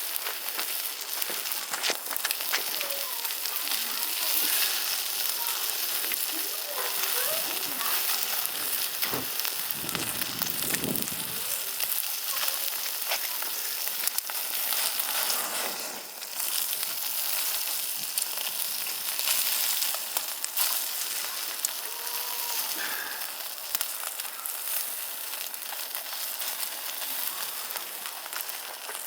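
Meat sizzling steadily on a grill over a wood fire, a constant hiss dotted with sharp little pops and crackles.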